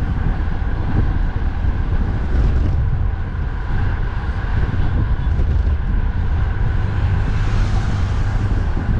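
Strong wind buffeting the microphone of a moving bicycle, a steady heavy rumble, with road traffic running underneath it.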